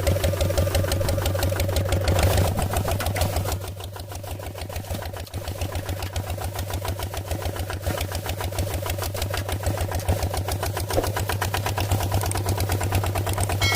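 Small engine of a mini tractor running with a rapid, steady chugging beat. It drops quieter for a couple of seconds about four seconds in, then picks up again.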